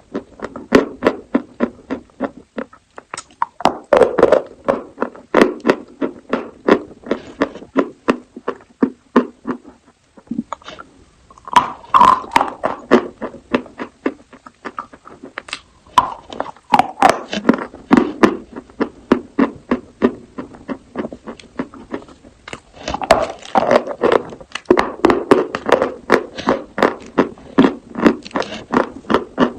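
Chalk being bitten and chewed close to the microphone: dense, rapid dry crunches in repeated bursts, with brief lulls about ten seconds in and again around twenty-two seconds.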